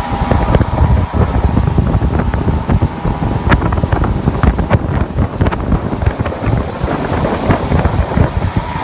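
Wind buffeting the microphone on a moving boat: a loud, uneven rumble with crackles, with the boat's running noise beneath it.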